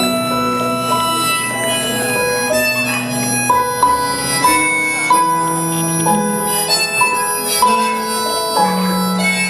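Live rock band playing an instrumental passage of a song, with held lead notes over a moving bass line and no singing.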